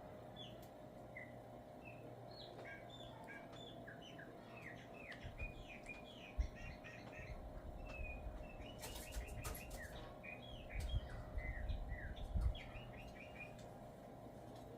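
A songbird singing its normal song, a quick run of short whistled chirps and slurred notes. Dull low thumps and a few clicks come in the middle and latter part, over a steady low electrical hum.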